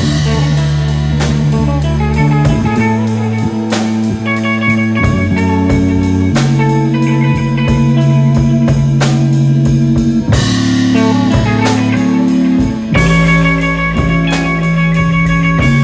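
Instrumental rock jam in A major: drum kit keeping a steady beat under sustained bass notes that change every few seconds, with electric guitars playing over the top.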